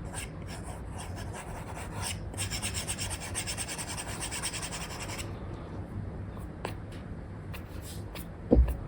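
Stylus nib scratching across a paper-like screen protector on a tablet while sketching: short strokes, then a run of rapid back-and-forth hatching strokes for about three seconds, then a few single strokes. A short low thump near the end is the loudest sound.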